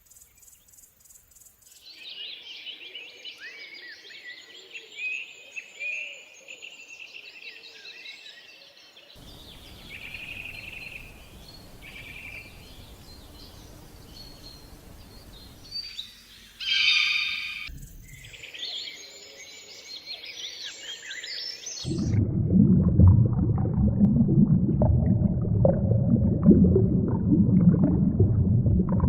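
Birds chirping and calling for most of the stretch, broken by one short, loud pitched animal call about halfway through. About three-quarters of the way in, the birdsong cuts off and gives way to a loud, low rumbling noise.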